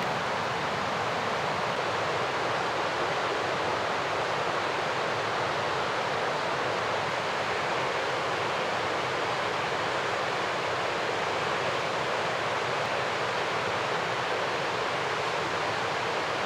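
Mountain river rushing, a steady unbroken roar of fast-flowing water.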